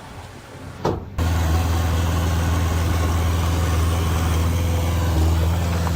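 A short click, then about a second in a heavy construction machine's diesel engine cuts in suddenly, running at a steady low hum.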